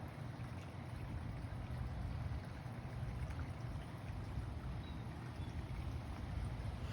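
Wind buffeting the microphone outdoors: a steady, unevenly fluctuating low rumble.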